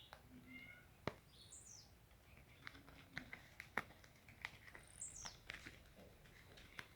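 Faint bird chirps, with a couple of quick high calls sliding down in pitch, over scattered small clicks and taps.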